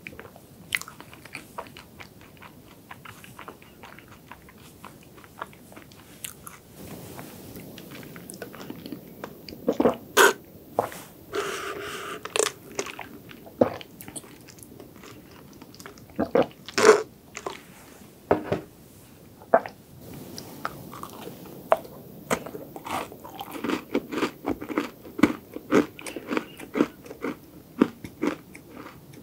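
Close-miked chewing and crunching of chocolate dessert, many small sharp crunches, thickest near the end. About eleven seconds in, a couple of seconds of steady sipping through a straw from a cup of chocolate latte.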